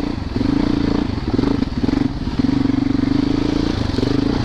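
Yamaha YZ450FX's single-cylinder four-stroke engine heard from the bike on a trail ride, its throttle opened and eased off several times.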